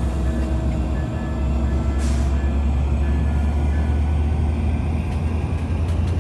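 Metra commuter train's diesel locomotive running with a deep, steady low rumble, and a short hiss of released air about two seconds in.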